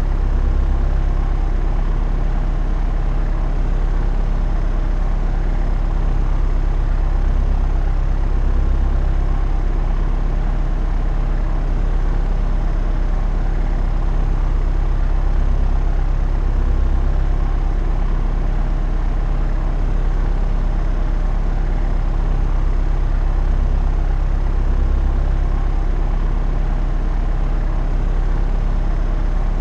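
Propeller aeroplane in flight: a steady drone of engine and propeller, deep and even, with several steady tones over it. The lowest part of the drone swells slowly about every eight seconds.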